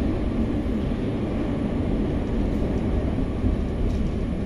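Steady running noise inside an MI84 RER B train car: a low rumble of wheels on rail and traction equipment with an even hiss over it.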